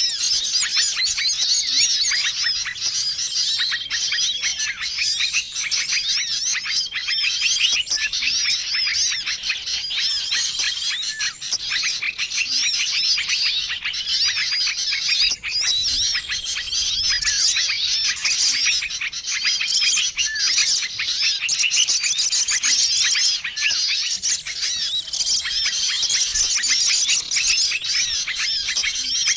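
Bird-luring recording of a noisy chorus of many small wild songbirds calling at once: a dense, continuous twittering of high chirps and trills, with a short level whistled note coming back every few seconds. It is a lure call for drawing in small birds.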